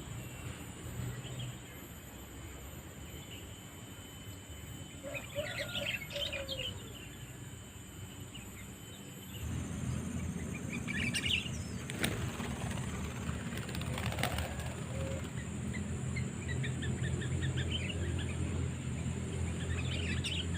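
Sooty-headed bulbul (kutilang) calls: short bursts of chirping phrases every few seconds, used as a lure call. A steady high-pitched drone runs underneath, and a low rumble comes in about halfway through.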